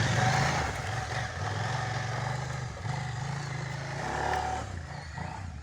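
Trail motorcycle engine running on a motocross track, the throttle opening and closing several times and the sound getting quieter near the end.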